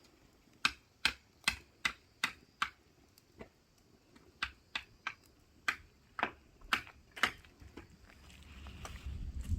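A run of sharp knocks on wood: six evenly spaced strokes at about two and a half a second, then a looser, uneven run of further knocks.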